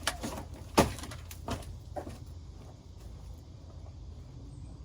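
A few sharp knocks and clicks, about five in two seconds, the loudest just under a second in, from parts being handled and fitted while reassembling the SUV.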